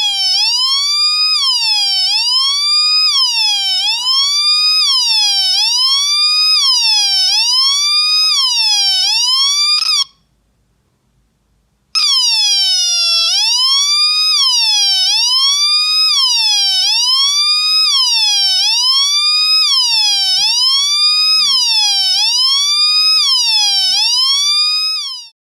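Homemade two-NE555-timer police-siren circuit sounding through a small 4-ohm speaker: a wailing tone sweeping up and down about once a second. It cuts out for about two seconds midway, then starts again and stops near the end.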